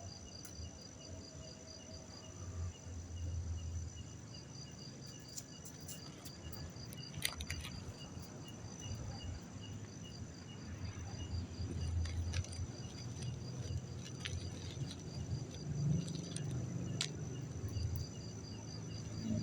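Crickets chirping in evenly repeating pulses over a steady high-pitched insect trill. Occasional faint clicks and soft low rumbles come and go.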